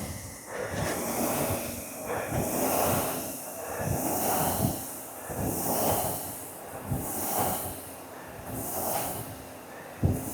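Ski erg fan flywheel whooshing with each double-pole pull, about one pull every second and a half, mixed with hard breathing.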